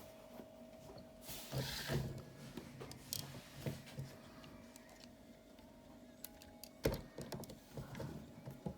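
Generation Toy Longhaul plastic transforming robot figure being handled and posed: scattered light plastic clicks and rustles, with one sharper click about seven seconds in.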